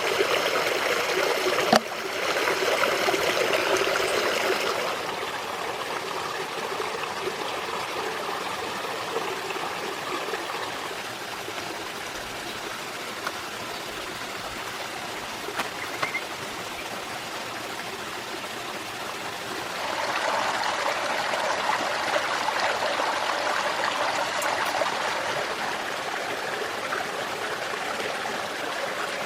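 Stream water flowing steadily, louder for the first few seconds and again from about two-thirds of the way through, with a single sharp knock about two seconds in.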